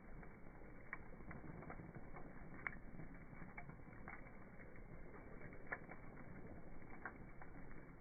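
Wood bonfire crackling: irregular small pops and snaps over a soft steady background of the burning fire, with a couple of louder pops partway through.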